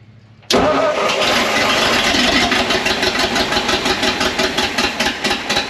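A 1959 Ford F700's Y-block V8 is cranked and fires abruptly about half a second in, running on gas poured into the carburetor with a rough, uneven pulse. It runs only on the poured fuel because the carburetor is suspected faulty: the engine won't idle on it.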